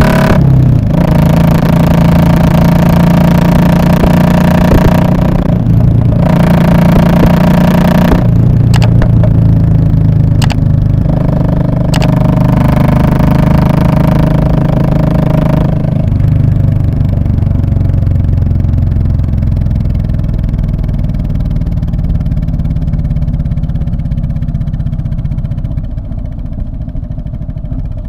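Royal Enfield Classic 500's single-cylinder engine running through an aftermarket muffler, its exhaust note changing pitch several times with throttle and gear changes. In the second half it grows steadily quieter and duller as the revs fall away.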